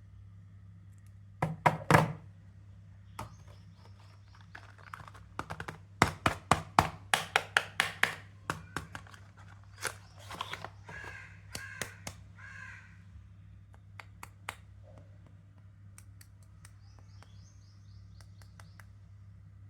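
Sharp taps and knocks with crinkling from a bar of soap and its wrapper being handled and unwrapped: a loud pair of taps early on, then a quick run of taps and crinkles. A few short, harsh pitched calls follow, over a steady low hum.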